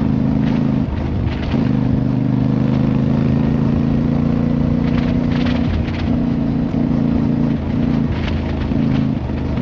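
Motorcycle engine running steadily while riding, its pitch shifting in small steps with the throttle.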